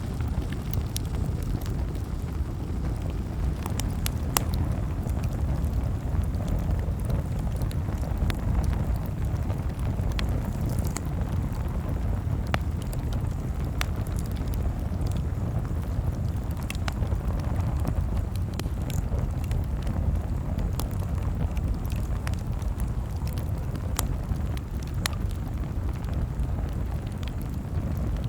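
Campfire crackling: scattered sharp pops and snaps, a few every second, over a steady low rumble.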